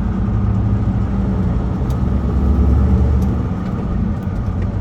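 Semi-truck engine and road noise heard inside the cab while driving: a steady low drone.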